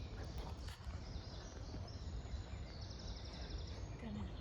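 Songbirds singing outdoors, with a rapid high trill in the second half, over a steady low rumble.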